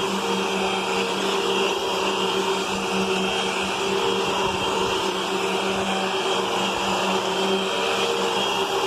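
Hoover UH71250 Whole House Rewind upright vacuum cleaner running steadily: an unbroken motor hum over a rush of air.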